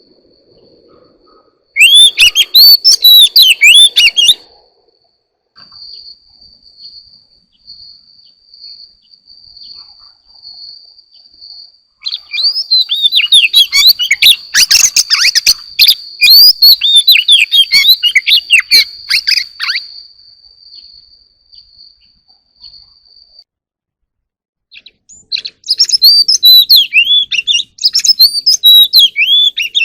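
Oriental magpie-robin singing loud, varied phrases of quick whistles and chattering notes, in three bursts: near the start, through the middle, and near the end.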